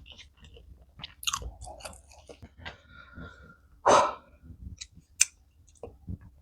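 Close-miked chewing of food, with wet mouth clicks and smacks. There is a louder mouth sound about four seconds in and a sharp click a second later.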